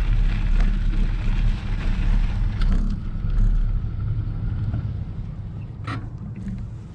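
Low engine rumble that fades over the last few seconds, with a short sharp sound near the end.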